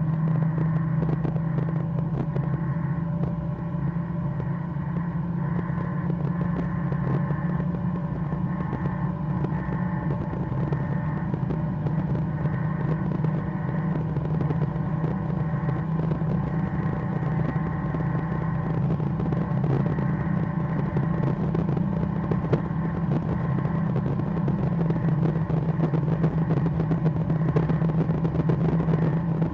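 Mercedes-Benz A200's 1.3-litre turbocharged four-cylinder pulling hard at high speed in a tall gear, a steady loud drone that holds almost one pitch, under a haze of tyre and wind noise.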